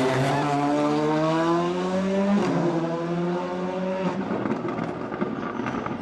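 Rally car engine pulling hard under acceleration, its pitch rising, with a sharp upshift about two and a half seconds in, then rising again before fading away as the car moves off.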